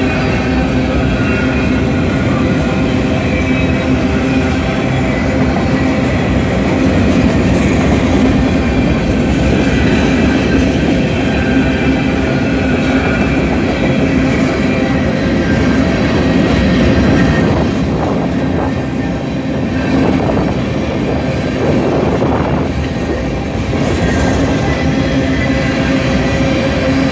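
Covered hopper cars of a freight train rolling past close by: a continuous rumble of steel wheels on rail, with a steady drone running through it.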